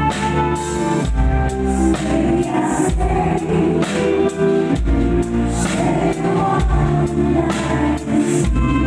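Live band music with singing over a steady drum beat, played through a column-speaker PA system.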